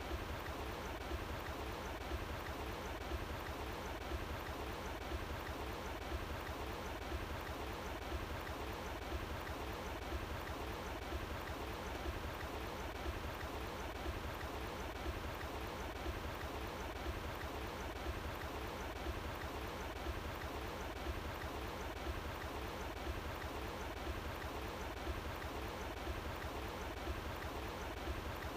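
Running water flowing steadily, a continuous even rush with a low rumble underneath.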